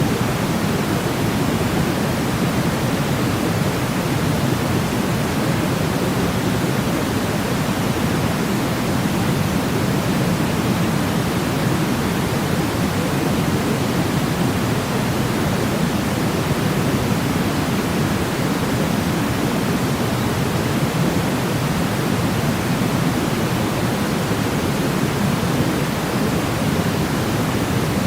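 Steady, unchanging pink noise, deeper than white noise and weighted toward the low end, played as a sleep sound for babies.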